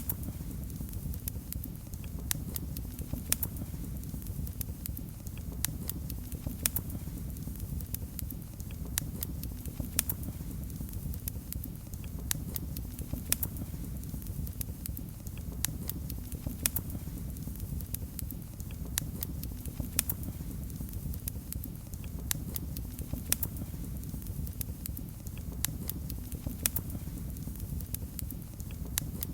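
Wood fire crackling in a fireplace: a steady low rumble of flames with sharp pops and snaps at irregular intervals.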